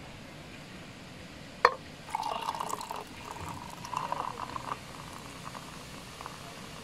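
Beer poured from a glass bottle into a stainless steel tumbler: a sharp clink, then gurgling for about three seconds, fading to a faint fizz as the foam rises.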